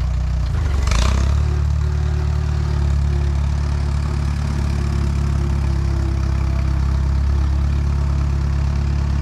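Allis-Chalmers WD tractor's four-cylinder engine running steadily. About a second in there is a brief clattery burst of noise, and the engine's note shifts slightly after it.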